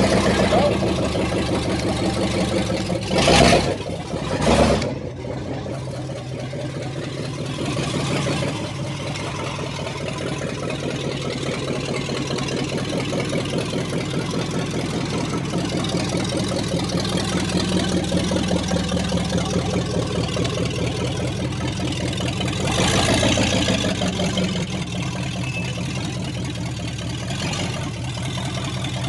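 1965 Buick LeSabre's V8 engine running steadily at a low idle, with two short loud noises about three and four and a half seconds in and a brief rise in the noise near the end.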